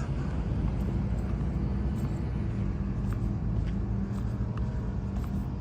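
Low, steady rumble of a Škoda 30T3 ForCity Plus tram running along the track, with faint short high ticks above it.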